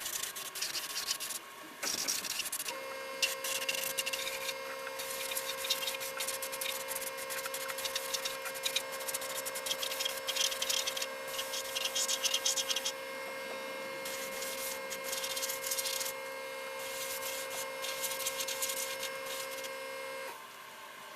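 Top coat being sprayed onto a steel vehicle frame: repeated hissing bursts of spray, a second or two each with short pauses between. A steady machine hum comes on about three seconds in and cuts off shortly before the end.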